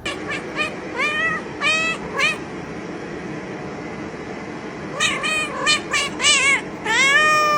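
A cat meowing over and over in short, rising calls: a quick run of them, a pause of a couple of seconds, then another run that ends in a longer drawn-out meow.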